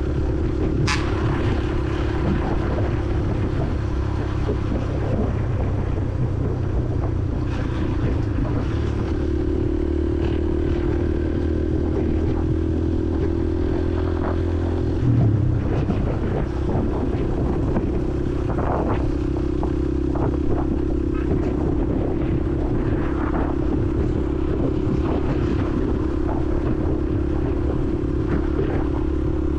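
Honda CRF150L's single-cylinder four-stroke engine running steadily under way, heard from a helmet-mounted camera. The engine note shifts and briefly swells about halfway through, and there is a sharp click about a second in.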